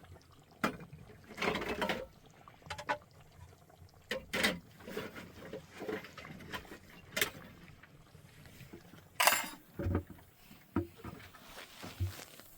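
Irregular knocks, sharp clicks and short scraping bursts, the sounds of hands handling things at close range.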